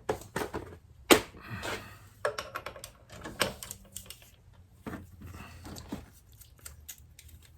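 Irregular small metallic clicks and taps of hand tools while the engine is turned over by hand and a feeler gauge is worked under the cam lobe to check valve clearance.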